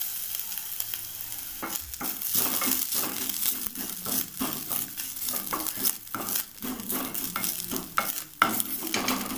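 Grated coconut sizzling as it roasts in hot ghee in a kadai, with a wooden spatula stirring and scraping it around the pan in repeated quick strokes from about one and a half seconds in.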